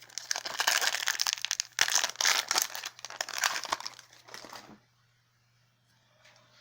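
Crinkling of a foil Yu-Gi-Oh! booster pack wrapper being handled, a dense crackle for nearly five seconds that stops abruptly.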